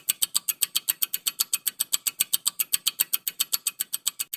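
Countdown-timer ticking sound effect: rapid, even, sharp ticks, about seven a second, filling the answer pause of a quiz.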